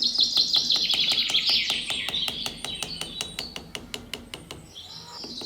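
Birds chirping in quick falling trills, loudest in the first half and picking up again near the end, over a rapid, even clicking.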